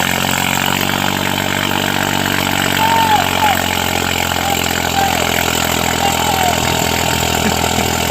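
Small engine of a homemade mini tractor running steadily at an even speed. A few faint short chirps sound over it in the middle.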